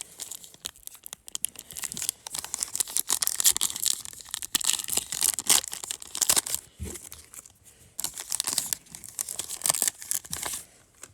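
A foil trading-card pack wrapper being torn open and crinkled by hand: irregular crackling and rustling, stopping briefly about eight seconds in.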